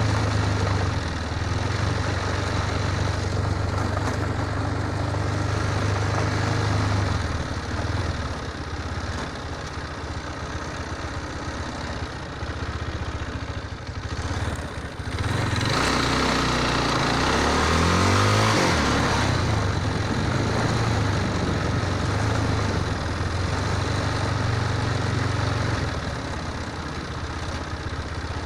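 Motorcycle engine running steadily, its pitch rising for a few seconds just past the middle as the revs climb, then settling back.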